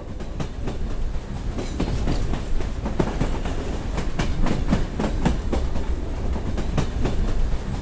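A train running on rails, its wheels clattering over the track in a quick, irregular run of clicks.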